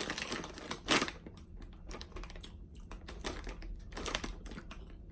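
Rapid, irregular crackling of a bag of Rap Chips Hot Cheese Fries potato chips and the chips being crunched, with a louder crackle about a second in.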